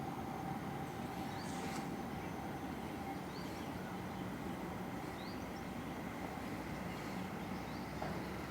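Outdoor park ambience: a steady low background hum with a few short, rising bird chirps.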